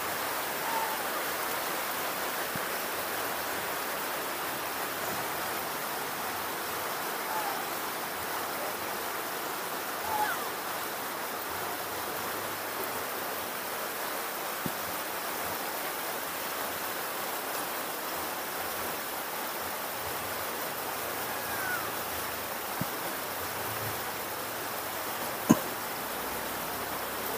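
Steady rain falling, an even hiss throughout. A few brief faint chirps come through it, and there is a single sharp tap near the end.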